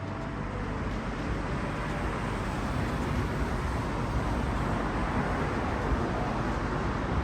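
Steady outdoor background rush, like road traffic going by, with no distinct events.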